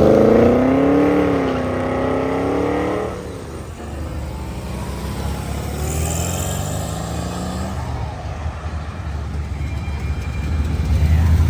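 Classic and muscle car engines accelerating away. One revs up and settles in the first three seconds. A second picks up pitch around six seconds in, and a deep engine rumble grows loud near the end.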